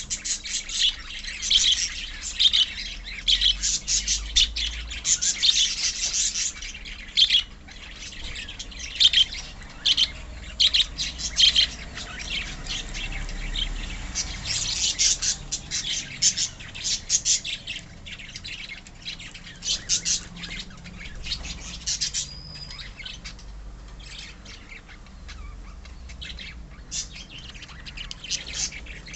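A colony of lovebirds chirping and squawking all at once, a dense run of short shrill calls that thins out in the second half.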